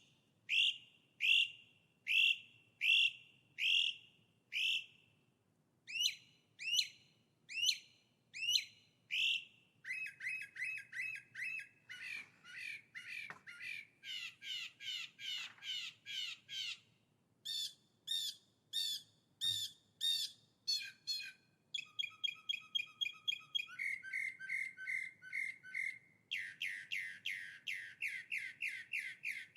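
A songbird singing loud, clear phrases. It starts with a slow series of sharp, downward-sliding whistled notes, then moves into rapid trills whose note pattern changes every few seconds.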